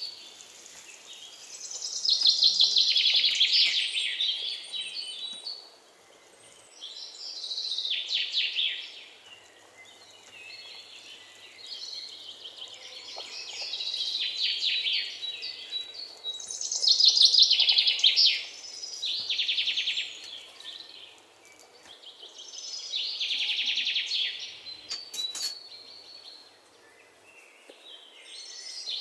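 A bird singing short, high, trilling phrases, repeated every few seconds.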